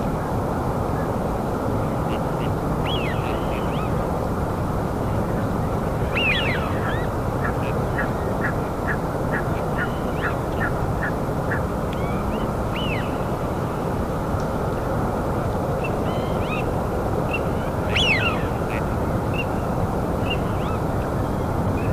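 Birds calling over a steady, low rushing background noise: scattered short chirps, a run of quick repeated notes, about two a second, and a louder call near the end.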